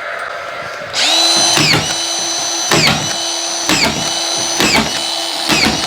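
Handheld electric power tool switched on about a second in and kept running with a steady high whine. Its pitch sags briefly about once a second as it bites under load.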